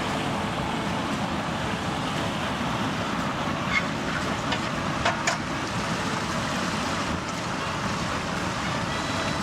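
Steady rushing of river water, with a few light clicks or knocks about four and five seconds in.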